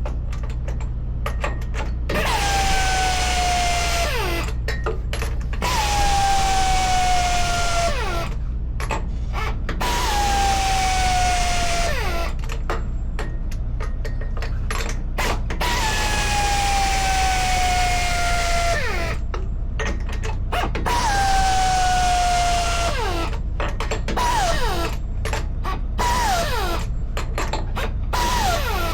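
Impact wrench spinning up, running with a slowly falling pitch and stopping, again and again every three to four seconds, with a steady low hum underneath.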